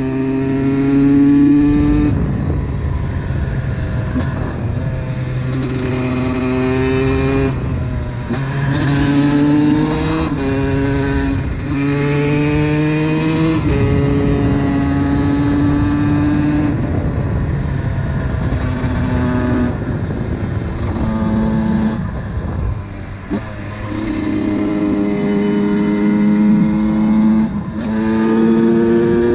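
Honda CR125's two-stroke single-cylinder engine pulling hard under acceleration. Its pitch holds or climbs, then breaks and drops with each gear change every few seconds, and it briefly eases off about two-thirds of the way through.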